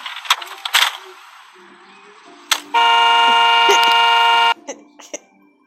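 A car horn sounds once, a steady flat blast lasting nearly two seconds, after a few seconds of hiss with several sharp knocks.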